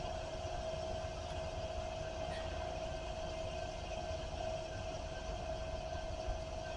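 Train running on the line: a steady low rumble with a steady tone held above it.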